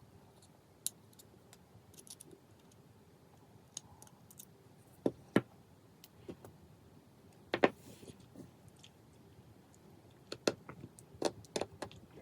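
Scattered light clicks and taps of small tools and tiny screws and parts being handled while an iPhone 5s is taken apart. There are sharper knocks about five and seven and a half seconds in, and a quick run of clicks near the end.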